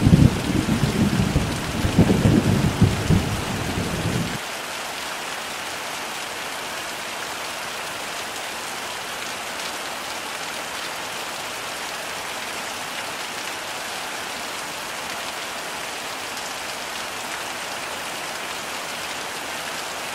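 Heavy rain falling steadily, with a rolling thunder rumble at the start that cuts off abruptly about four seconds in, leaving only the even hiss of the downpour.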